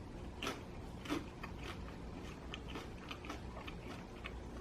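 Chewing a mouthful of extra-crispy pizza: faint crunching clicks, with two louder crunches in the first second or so.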